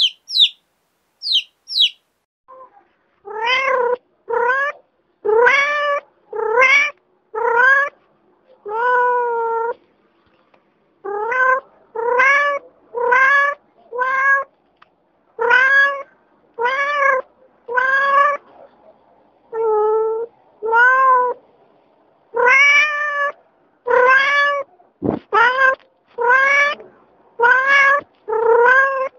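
Chicks peeping a few times, then a domestic cat meowing over and over, short meows about one a second.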